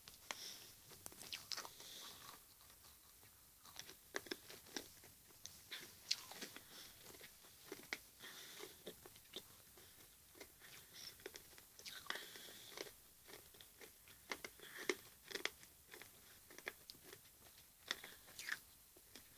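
Faint, close-up chewing and crunching of a mouthful of Pez fizzy sweets: irregular soft crunches and clicks.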